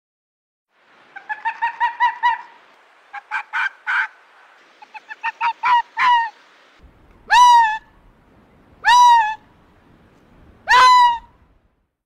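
Calls of a large bird, goose-like. First comes a quick run of short calls in three clusters, then three longer calls about one and a half seconds apart, each rising sharply at the start and then held.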